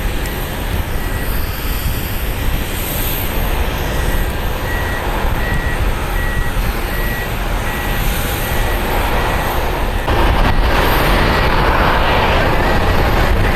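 Jet airliner noise: a steady, noisy rumble that grows louder about ten seconds in. Under it a faint high beep repeats on and off, like a vehicle's reversing alarm.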